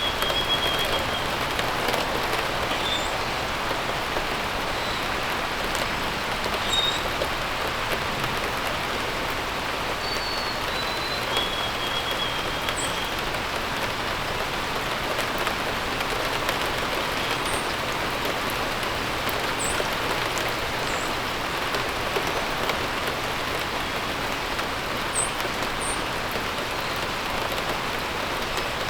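Steady rain falling. A bird's short whistled phrase, stepping down in pitch, comes near the start and again about ten seconds in, with brief high chirps here and there.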